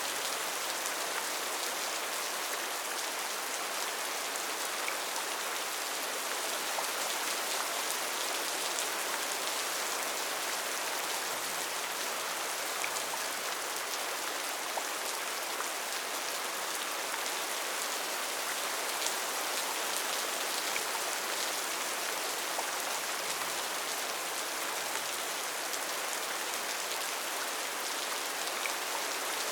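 Steady rainforest rain, a continuous even hiss of drops with scattered faint individual drop ticks.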